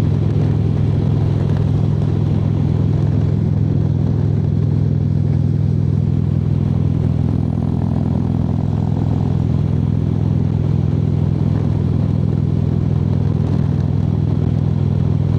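Harley-Davidson V-twin motorcycle engine and exhaust running at a steady highway cruise, a constant deep rumble.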